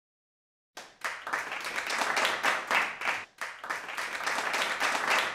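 Applause: many hands clapping, starting about a second in, with a brief break about halfway through.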